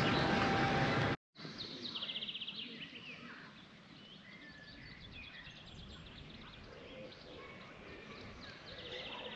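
A loud rush of noise for about a second, then, after a sudden cut, songbirds singing: several rapid high trills and scattered chirps over a quiet outdoor background.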